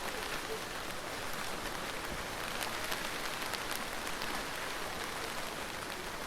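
Steady rain falling, with many distinct drops ticking against a surface through the steady hiss.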